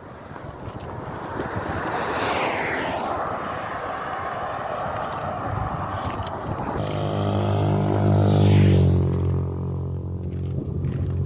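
Motor vehicles passing close by on the road. First comes a swell of tyre and road noise that falls in pitch as it passes about two seconds in. Then a vehicle with a low engine drone passes about eight seconds in, the loudest moment.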